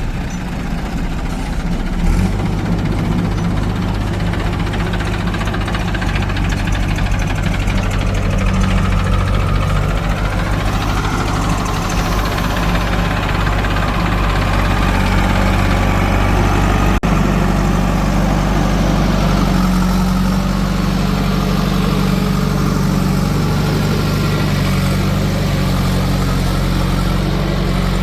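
Diesel engines of earth-moving machinery running steadily with a low, even drone, with a brief dropout about two-thirds of the way through.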